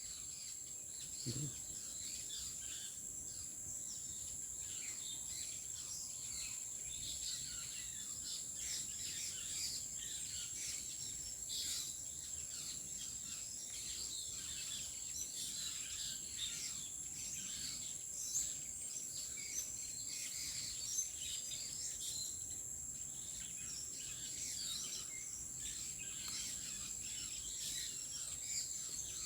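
Many small birds chirping and calling in short, overlapping notes over a steady high-pitched insect drone.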